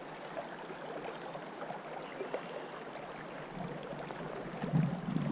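Shallow river current running and babbling steadily, with a gust of wind buffeting the microphone near the end.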